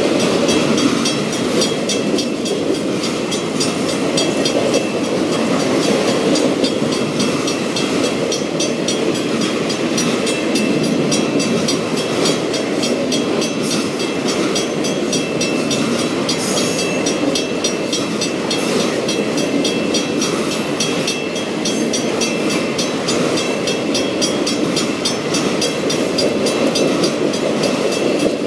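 Loaded autorack freight cars rolling past close by: a steady rumble of steel wheels on the rails.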